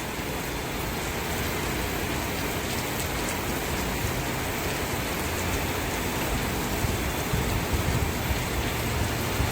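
Steady rain: an even hiss that holds the same level throughout, with no separate drops standing out.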